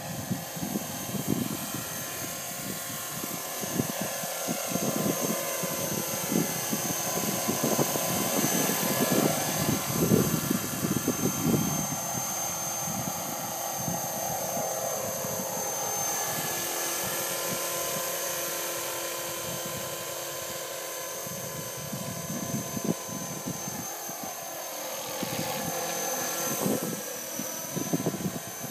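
Radio-controlled MD500 scale model helicopter flying, with a steady high whine from its motor and rotors. The pitch rises and falls as it manoeuvres, over a gusty low rumble.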